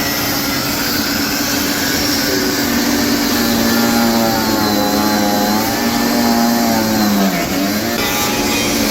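An engine running and revving, its pitch rising and falling, then dropping away sharply about seven seconds in.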